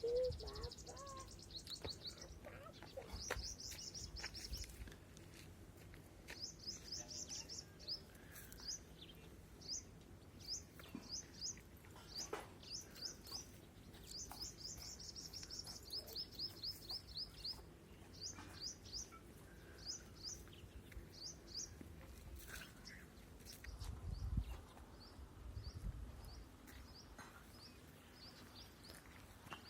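A small songbird chirping over and over in high, quick notes: short rapid trills and groups of two or three chirps, fading in the last third. A few low bumps come near the end.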